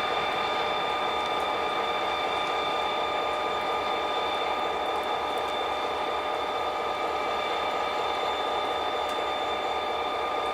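A train at the station, with a steady, even mechanical whine: a high tone with overtones over a constant hum.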